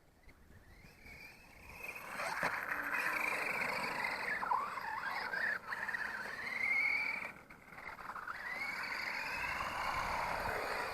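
Electric motor and drivetrain of a Reely New1 RC monster truck whining as it drives, the pitch rising and falling several times with the throttle.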